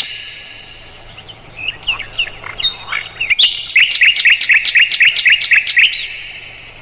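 Sikatan londo singing: a few scattered chirps, then about three and a half seconds in a fast, even run of rising whistled notes, about seven a second, lasting some two seconds and stopping about a second before the end.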